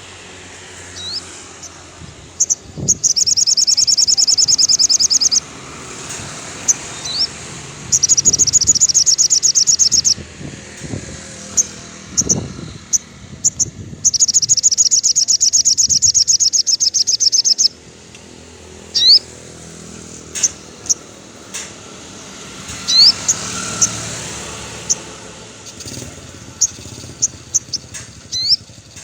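A sogon songbird singing: three rapid, high trills of two to three seconds each, with single sharp chirps and short rising whistles in between.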